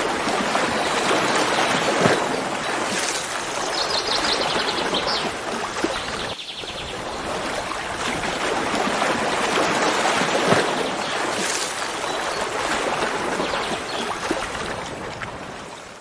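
Flowing water, a steady rush that swells and eases slowly, with a brief rapid high-pitched trill about four seconds in. It fades out at the end.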